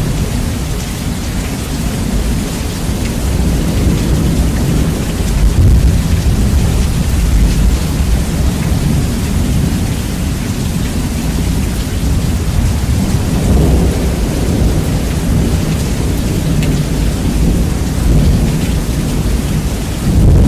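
Steady rain with rolling thunder, bass-boosted so that the low rumble dominates and the level runs close to full scale. The thunder swells several times, the strongest rumbles about six seconds in, around thirteen seconds and again near the end.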